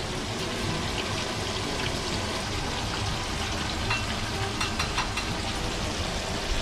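Battered pieces deep-frying in hot oil in a wok: a steady sizzle with scattered small pops.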